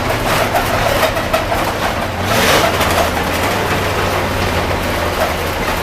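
International Harvester SV304 V8 gasoline engine of a 1973 Loadstar school bus running steadily while the bus drives. A brief hiss comes about two and a half seconds in.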